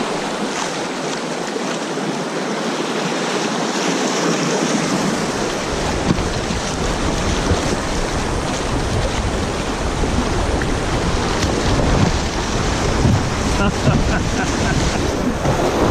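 Rushing water of a shallow, rocky river riffle running around a kayak. From about five seconds in, wind buffets the microphone.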